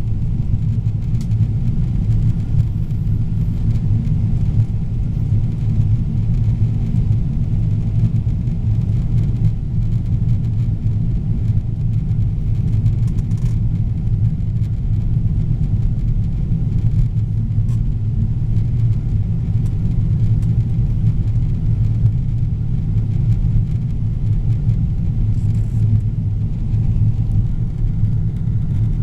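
Steady low rumble of Boeing 777-300ER cabin noise, engines and airflow heard from inside the cabin, at an even level throughout.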